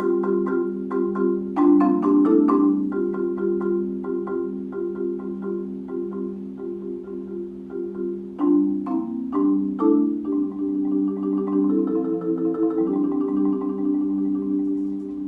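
Solo marimba played with four mallets: quick mallet strokes blending into sustained rolled chords in the low-middle range, with a cluster of sharper accented strokes about two-thirds of the way through.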